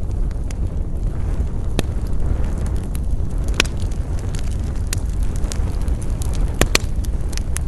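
A wood fire burning, crackling with scattered sharp pops, a few louder ones standing out, over a steady low rumble.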